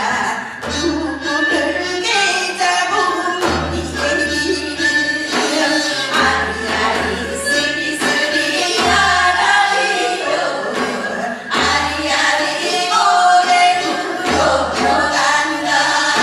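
Voices singing a Gyeonggi hwimori japga, the fast, patter-like Korean folk narrative song, in a continuous stream of quickly changing notes. A low pulse recurs about every one and a half seconds beneath the voices.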